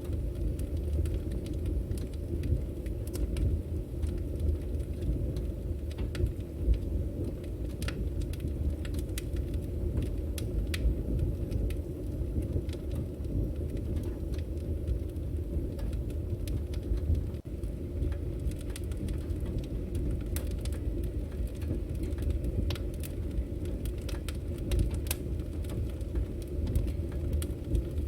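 Firewood burning: a steady low rumble of the flames with scattered sharp crackles and pops from the logs at irregular intervals.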